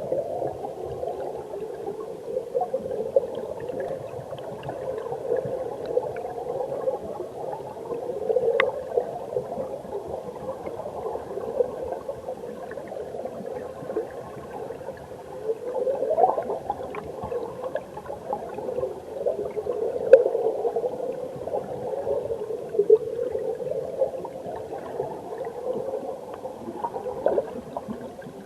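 Mountain stream water heard underwater: a continuous muffled gurgling and bubbling, with a few faint clicks.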